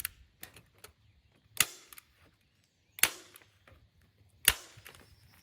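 A heavy-duty staple gun firing staples through greenhouse plastic into a wooden 2x4 frame: three sharp snaps about a second and a half apart, with fainter clicks in between.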